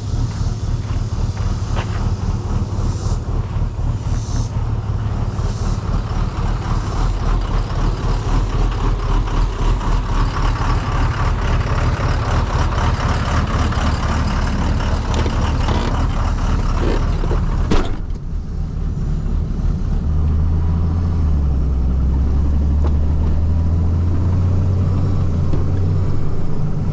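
Truck engine running steadily under way, with even low firing pulses. A sharp click comes about eighteen seconds in, after which the engine settles into a deeper, steadier drone.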